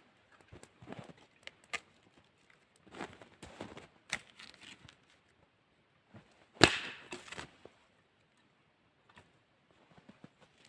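Dry sticks being snapped by hand for campfire wood: a few sharp cracks with short rustles between them, the loudest about six and a half seconds in.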